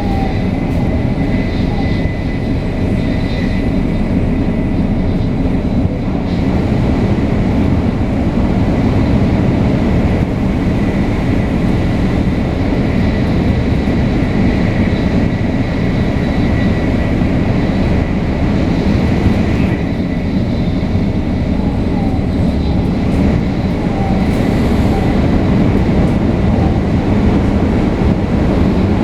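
500 series Shinkansen with Toshiba GTO-VVVF traction equipment, running steadily: an even, loud rumble with a faint steady high whine over it.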